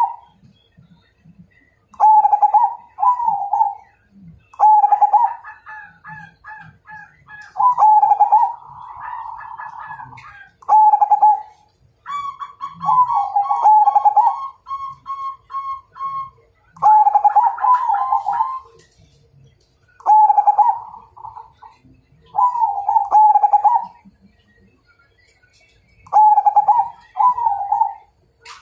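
A Majapahit-line perkutut (zebra dove) cooing its rhythmic challenge song. About ten short, loud phrases come every two seconds or so, with one longer, steadily held note near the middle.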